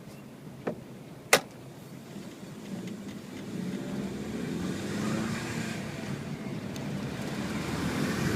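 Saab 9-5's turbocharged engine pulling under acceleration, heard with the windows down, its sound building steadily from about three seconds in. A sharp click comes a little over a second in.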